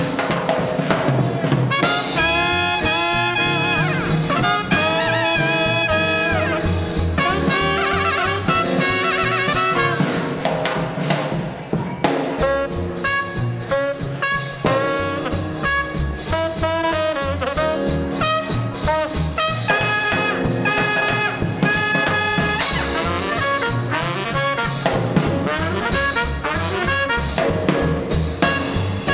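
Small-group swing band playing an instrumental passage: trumpet and saxophone lines over piano, walking bass and drums keeping a steady beat.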